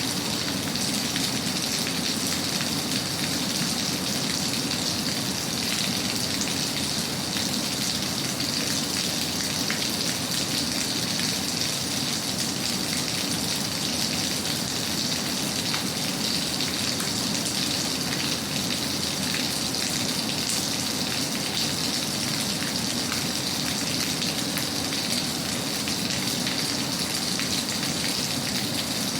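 Steady rain falling, an even patter of drops that holds unchanged throughout.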